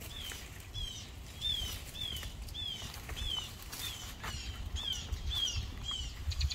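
A bird repeating a short, down-slurred chirp about twice a second, steadily, over a low outdoor rumble with a few faint clicks.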